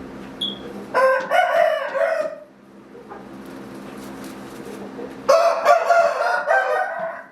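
Rooster crowing twice, each crow about a second and a half long, over a steady low hum.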